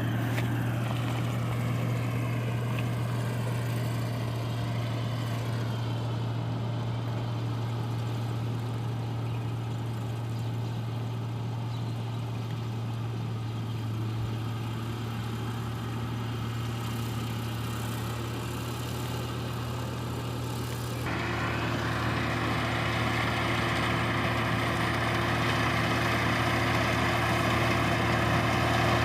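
Rice combine harvester's engine running steadily with a low hum. About three-quarters of the way through, the sound grows louder, with a higher steady hum and a whirring hiss joining in.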